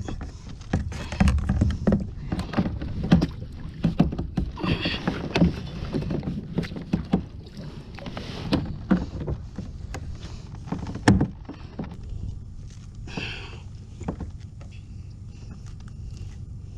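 Knocks and bumps of gear against a kayak's hull, scattered irregularly, over a steady low rumble, with a few short bursts of rushing noise as a hooked bass is worked to the boat.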